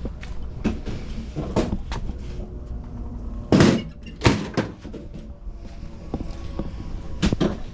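Scattered knocks and thuds, the two loudest a little past the middle, over a steady low hum.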